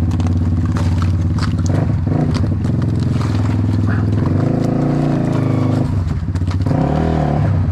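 Off-road motorcycle engine running, its revs changing about halfway through and again near the end, with scattered knocks and clatter.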